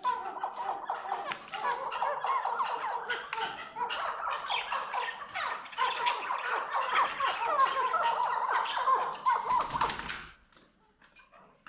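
Chukar partridge calling in a long, rapid run of chattering notes, which ends about ten seconds in with a short noisy burst, followed by quiet.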